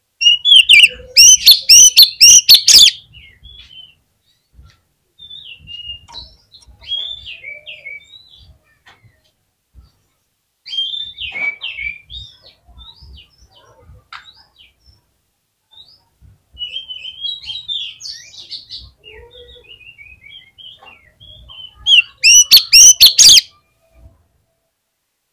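Oriental magpie-robin (kacer) singing. Loud, rapid, warbling phrases come in the first few seconds and again near the end, with quieter, varied short phrases in between.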